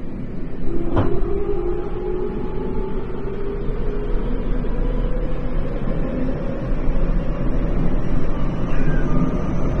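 Tokyo Metro 10000 series train running, a steady rumble with a sharp click about a second in and a motor whine that slowly rises in pitch as it picks up speed.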